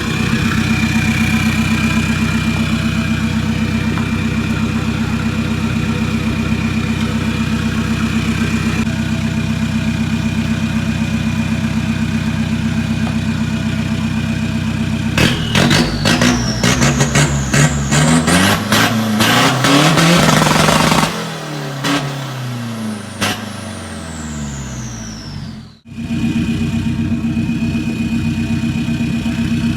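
Turbocharged Isuzu 1.9-litre diesel, fitted with a D-Max 3.0 turbo with a 44 mm compressor inlet, idling with a steady high turbo whistle. About fifteen seconds in it is revved hard several times, the turbo whistle rising with each blip. As the engine drops back, the turbo whine falls away long and smoothly, and then it settles to idle with the whistle again.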